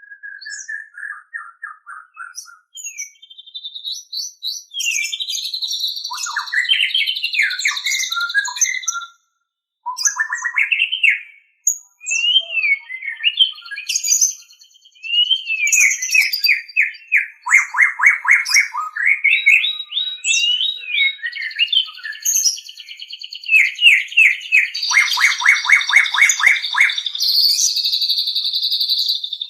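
White-rumped shama (murai batu) singing a long, varied song of whistled phrases, fast trills and runs of rapid repeated notes, with brief pauses now and then.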